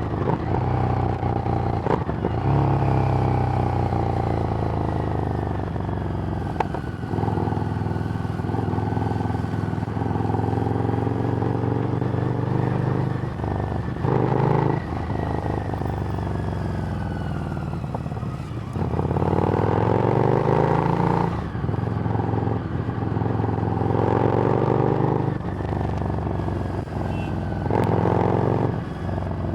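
Harley-Davidson Street Rod's 750 cc V-twin running through a Screamin' Eagle exhaust while riding, the engine note repeatedly climbing as it accelerates and dropping briefly at gear changes.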